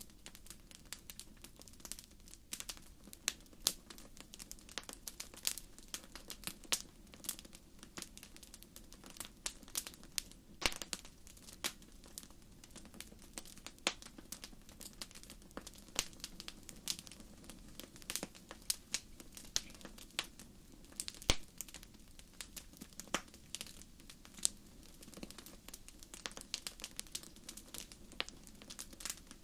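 Wood fire crackling: irregular sharp pops and snaps, often several a second, over a low steady rush from the burning fire.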